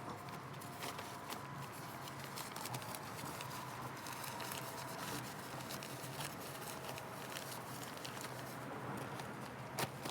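Wood campfire crackling, with irregular small pops and a few louder knocks near the end.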